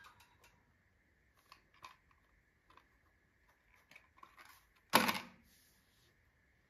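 Kindling in a freshly lit fireplace giving scattered small crackles and ticks, with one sharp, much louder knock about five seconds in. A faint steady high whine runs underneath.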